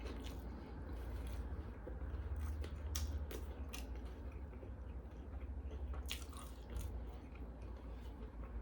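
Close-miked chewing of a BLT sandwich, wet mouth sounds with sharp crunches every few seconds, over a steady low hum.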